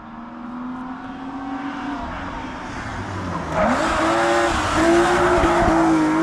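Rally car's engine approaching on a tarmac stage, growing louder; its note dips and climbs again about three and a half seconds in, and tyre squeal runs through the second half as the car corners.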